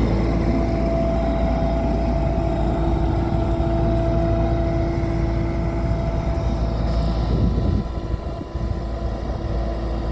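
Takeuchi TL140 skid steer's diesel engine running steadily, with a constant whine over the engine note. The sound drops a little in loudness about eight seconds in.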